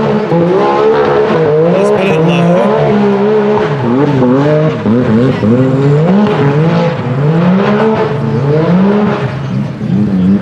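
UTV buggy engine revving hard under load on a hill climb, its pitch rising and falling every second or so as the throttle is worked on and off.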